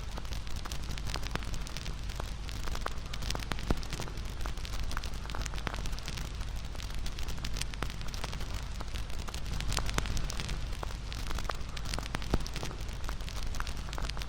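Wood bonfire crackling and popping: irregular sharp crackles over a steady low rumble of the flames, with a louder pop about four seconds in and another near the end.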